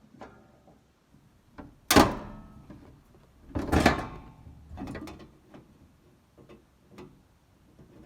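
Hand-lever sheet-metal punch snapping through steel sheet as it nibbles out a drain hole: two loud, sharp cuts, about two seconds in and just under four seconds in, each with a brief metallic ring, with lighter clicks of the tool between them.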